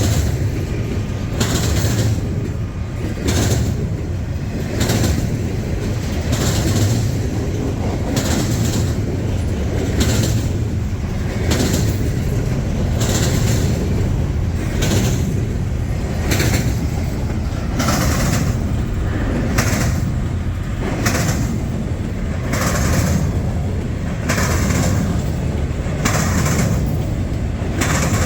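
Intermodal freight train rolling past at speed: a steady low rumble of wheels on rail, with the clack of car wheels crossing a rail joint about every one and a half seconds.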